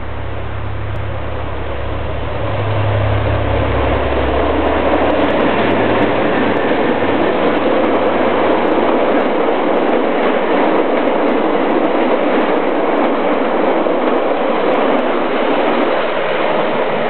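A passenger train's carriages rolling past close by: a steady loud rumble and clatter of wheels on the rails. A deep low rumble sits under it for the first few seconds, then fades, while the rolling noise grows louder about two seconds in and holds.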